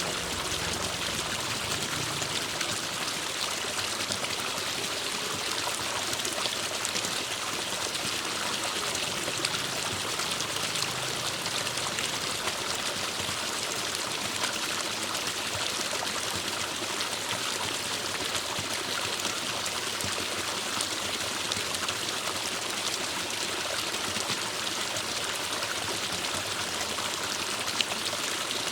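Forest stream flowing, a steady rushing and trickling of water.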